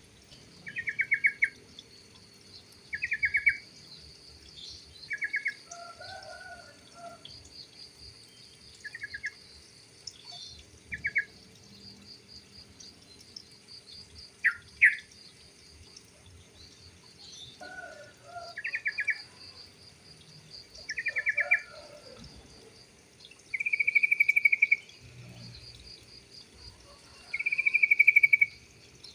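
Yellow-vented bulbuls (trucukan) calling: short, rapid chattering phrases repeated every couple of seconds, with two longer, louder phrases near the end. Behind them runs a faint, steady high trill like an insect.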